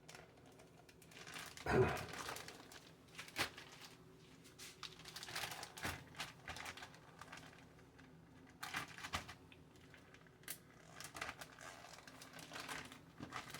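Plastic freezer bags crinkling and rustling as they are handled, in irregular short bursts with scattered clicks. A louder thump comes about two seconds in.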